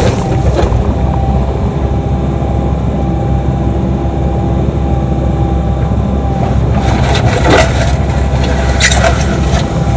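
Excavator's diesel engine running steadily under load while digging a trench, with a few knocks and scraping clatter of the bucket and dirt, loudest about seven to nine seconds in.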